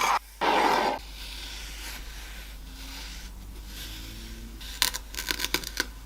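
Kinetic sand being handled: two short, loud crumbly rushes right at the start, then a quieter stretch and a quick run of crackles and clicks near the end.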